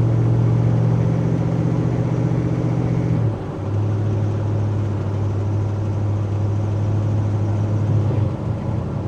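Engine of a restomodded 1983 Chevy C10 pickup running steadily under way. Its pitch drops about three seconds in, then holds steady again, with another slight change near the end.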